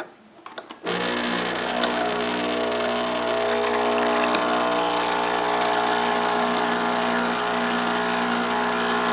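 Espresso machine's pump running steadily as it dispenses hot water into the cup: a constant hum under a hiss, starting about a second in.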